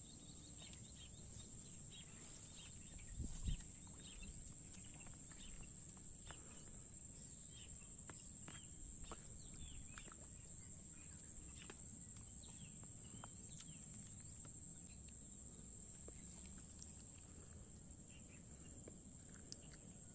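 Rural outdoor ambience: many short bird chirps scattered over a steady high-pitched drone, with a low rumble underneath and one dull thump about three seconds in.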